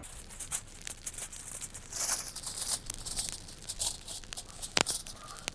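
Crinkling and rustling handling noise with many irregular small clicks, busiest about two seconds in.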